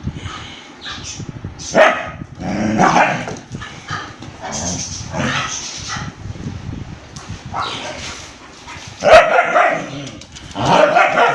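Dogs barking in a fight, an Indian street dog against a German shepherd, in loud, irregular bursts. The loudest bark comes about nine seconds in, with another loud run near the end.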